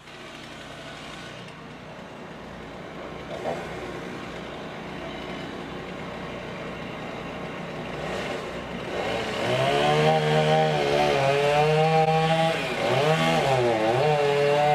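Chainsaw engine running, quieter at first, then loud from about nine seconds in, its pitch wavering and dipping as it bogs and recovers under load in the cut.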